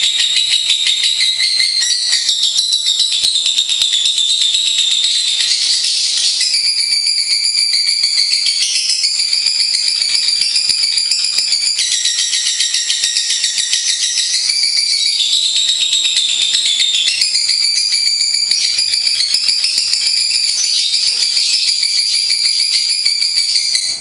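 Lovebirds singing a continuous, fast, high-pitched chattering trill that shifts its pitch pattern every few seconds without a break.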